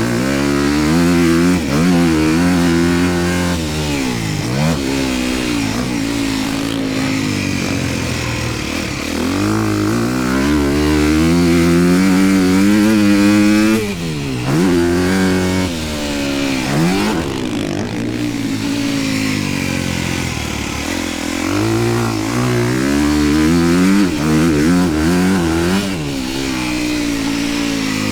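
Honda dirt bike engine being ridden hard: the pitch climbs under throttle, then drops sharply each time the throttle is chopped or it shifts, several times over.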